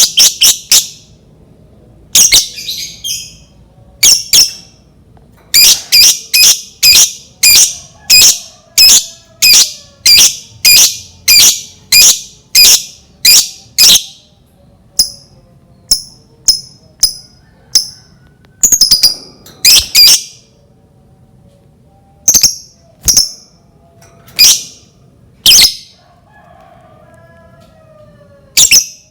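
Lovebird giving short, shrill, high-pitched calls, one after another at about two a second in a long run, then in scattered groups with pauses. It is a lure call, played to set other lovebirds calling.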